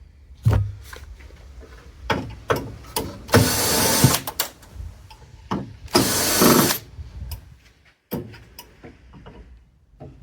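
Knocks and clicks of parts being handled while a hot water heater is dismantled, with two loud rasping bursts of about a second each, the first a little after three seconds in and the second around six seconds in.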